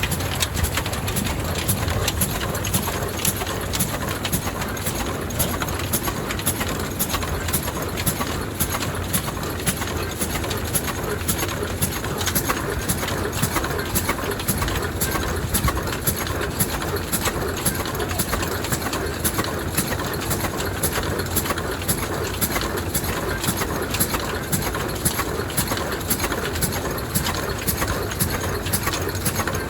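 35 HP Ruston diesel stationary engine running steadily, a regular, even beat of knocks over a low rumble.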